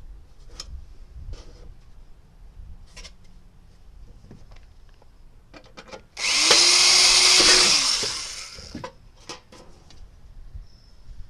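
A handheld electric power tool runs for about two and a half seconds, working the thin sheet metal of an empty cookie tin: its motor speeds up, holds steady, then winds down. Light handling clicks and taps come before and after it.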